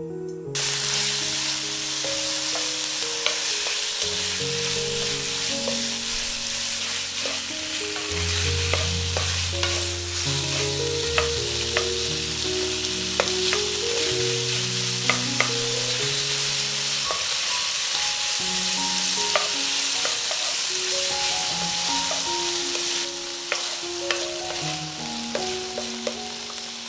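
Diced chicken sizzling in hot oil in a non-stick wok, the hiss starting suddenly about half a second in as the meat goes into the pan, with scattered clicks of a wooden spoon stirring it. Gentle background music with melodic notes plays underneath.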